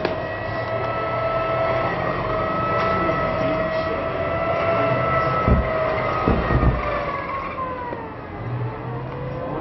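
Tracked armored vehicle running with a high whine whose pitch holds steady, dips near the end and climbs again. Two or three low thumps come in the middle.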